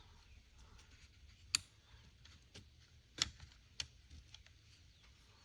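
A few sharp, light clicks and taps of small parts being handled as the top handle of an Echo CS-355T chainsaw is fitted back together with its spring. The sharpest clicks come about one and a half and three seconds in.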